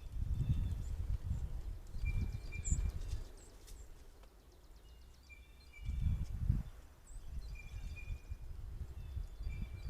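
Outdoor ambience at a backyard feeding deck: irregular low rumbling gusts, loudest about half a second in and about six seconds in, with a bird's short thin call repeating every two seconds or so and a few faint taps.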